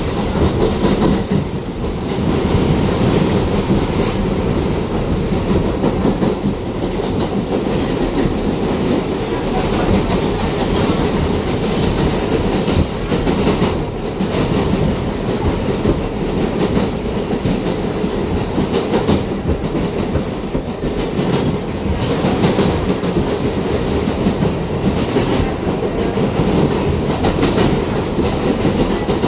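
New York City subway train running on the track, a steady loud rumble with the wheels clattering over rail joints.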